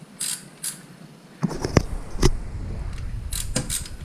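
Clicks and knocks of plastic wiring loom and connectors being handled in a car's engine bay. A low rumble starts about a second and a half in, with two sharper knocks soon after.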